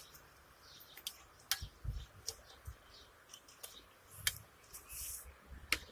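Hands rubbing round the wet, washing-up-liquid-coated outside of a camp cooking pan, with scattered faint clicks and soft knocks of the pan.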